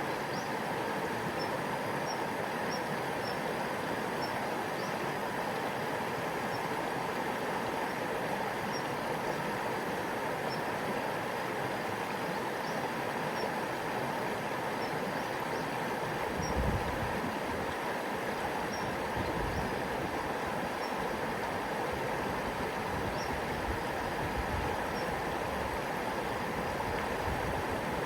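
Small stream babbling over stones in a steady, even rush of water. Faint short high chirps recur every second or two, and from a little past halfway irregular low rumbles come and go.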